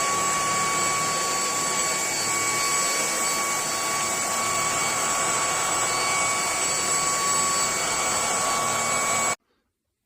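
Lubluelu 25000Pa cordless stick vacuum running steadily, a rush of air with a steady high motor whine, which cuts off abruptly about nine seconds in.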